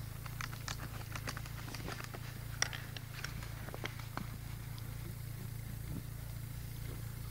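A car engine idling, a steady low hum, under scattered short clicks and snow crunches as a snowboarder ratchets his strap bindings closed. The sharpest click comes about two and a half seconds in.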